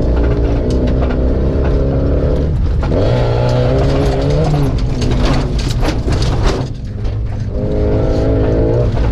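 Opel Frontera's engine running loud through a straight-pipe exhaust under hard driving. Its pitch changes about three seconds in, and it drops off briefly near seven seconds before settling back to a steady drone. Sharp clicks and rattles run through it.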